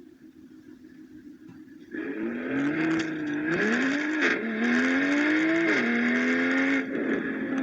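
BMW M340i's turbocharged inline-six, on an MHD Stage 2 tune with an aftermarket exhaust, accelerating hard from about two seconds in. Its pitch climbs and drops back three times as it shifts up through the gears, then holds a steady drone.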